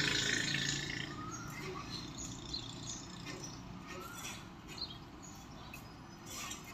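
Birds chirping outdoors: several short chirps scattered through, over a steady low background hum. A louder rush of noise fades away about a second in.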